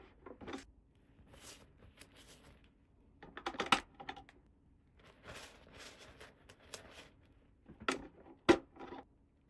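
Small plastic toy pieces being handled and set down: a string of light clicks, taps and rustles, with the sharpest taps about four seconds in and near the end.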